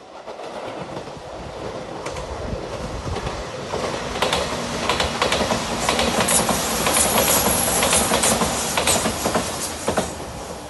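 A five-car JR Shikoku 8000 series Shiokaze limited express electric train passing at speed, its noise building as it approaches. From about four seconds in, a rapid run of wheel clacks over the rail joints carries on to near the end, and then the train fades away.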